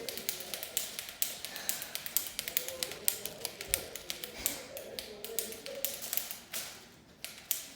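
Rubber-band-powered flapping bird toy being wound by hand: a fast, uneven run of small clicks, about five a second, easing off briefly near the end.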